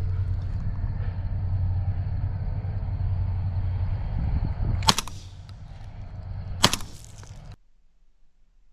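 Two shotgun shots about two seconds apart, over a low rumble; the sound cuts off shortly after the second shot.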